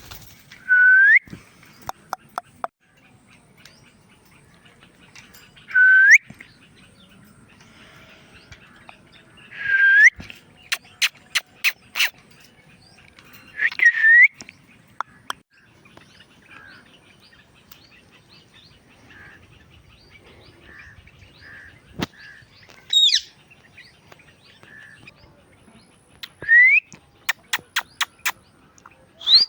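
Indian ringneck parakeet calling: about six short, loud rising squawks, spaced a few seconds apart. Runs of quick sharp clicks come between the calls.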